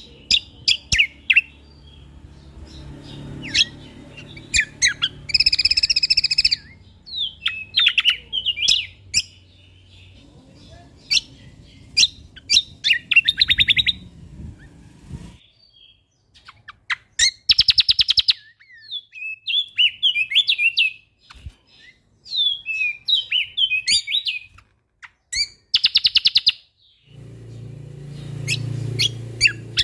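Kecial kombok (cucak kombo) songbird singing in varied phrases: rapid sharp chips, short sliding whistles and buzzy rattling notes, with brief pauses between bursts. A low hum sits behind the song for parts of the stretch.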